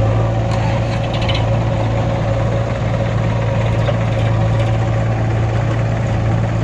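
Tractor diesel engine running steadily at an even, unchanging pitch.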